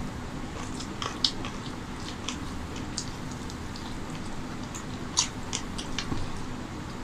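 Close-up mouth sounds of eating chicken curry by hand: chewing and biting meat off the chicken piece, with wet clicks and smacks scattered through, the sharpest about a second in and about five seconds in.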